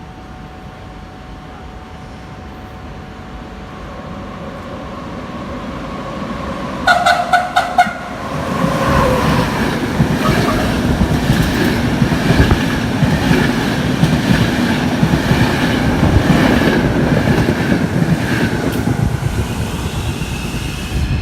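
A train approaching and passing through a station. Several quick horn blasts come about seven seconds in, then a loud rush of wheels clattering over rail joints for over ten seconds, easing off near the end.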